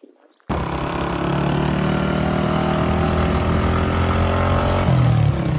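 Motor vehicle engine running steadily, cutting in suddenly about half a second in, its pitch shifting slightly near the end.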